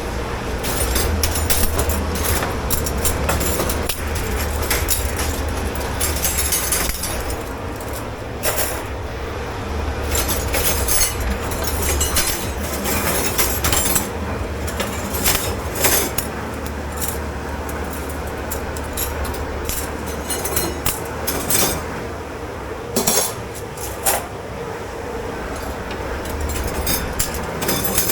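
Dishes, glasses and cutlery clinking and clattering as they are handled and stacked in a commercial kitchen dish pit, many sharp knocks, over a steady low machine hum.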